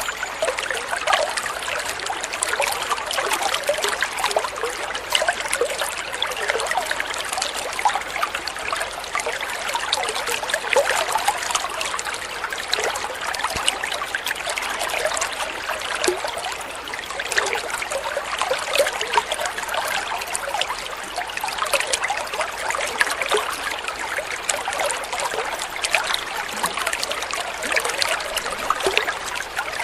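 Water flowing and trickling steadily, a continuous splashing babble like a small stream.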